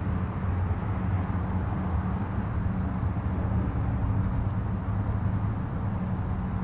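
Distant highway traffic: a steady low rumble of passing vehicles and tyres with a constant low hum, no single vehicle standing out.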